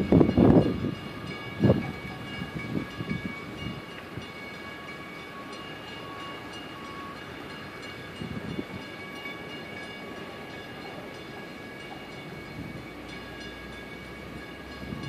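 A distant diesel passenger train running on the Long Island Rail Road's Montauk Branch, heard as a faint, steady low rumble with a thin steady hum over it. A louder rush fades out in the first second, and there are a few brief knocks.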